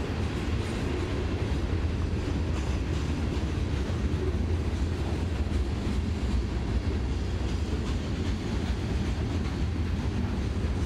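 Norfolk Southern freight train's covered hopper cars rolling past, a steady low rumble of steel wheels on rail.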